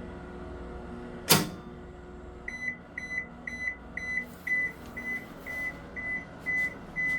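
AW-B7091 washing machine: a low hum, then a single loud clunk about a second in, then a run of short, evenly spaced electronic beeps, two to three a second, from the control panel. This is typical of the wash programme stopping or ending.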